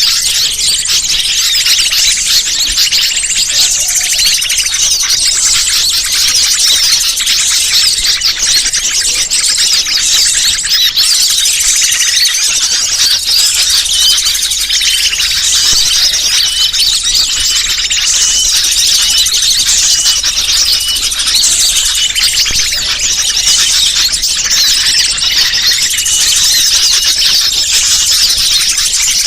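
Bird-luring (pikat) recording: a dense chorus of many small birds chirping and twittering without a break, high-pitched and loud.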